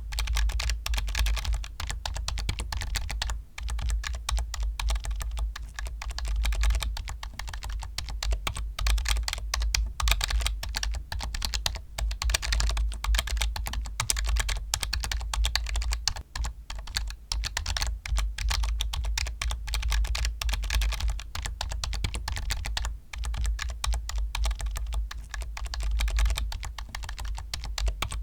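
Computer keyboard typing: a fast, continuous run of key clicks without pause.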